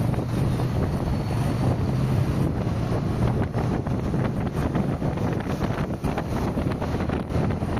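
Steady road noise of a car driving on a highway: a low, even rumble of engine and tyres with wind buffeting the microphone.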